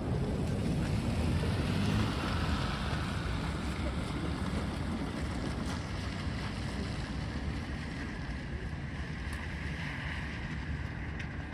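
Narrow-gauge steam train on the move: a steady low rumbling rush that eases off slightly toward the end.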